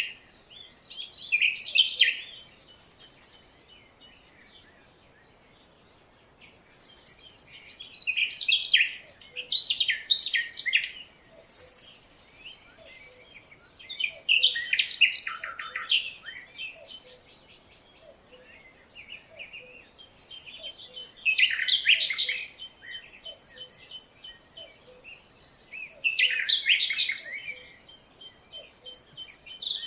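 Birds singing in bursts of rapid, high chirping phrases, a few seconds apart, with quieter gaps between them. A faint, short low note repeats about once a second underneath.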